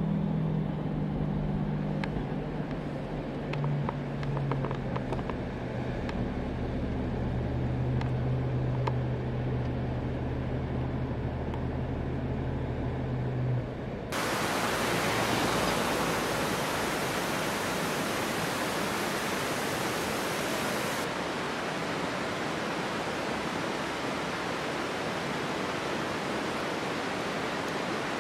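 Car engine running steadily, heard from inside the cabin while driving. About halfway through it cuts abruptly to the even rushing of a waterfall.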